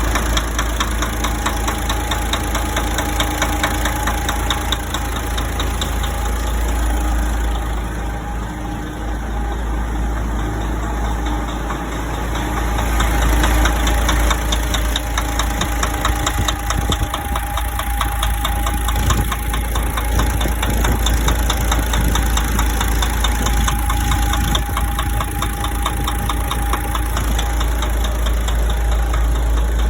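DAF 105 truck's diesel engine idling with a steady, rapid rhythmic knock from inside the engine.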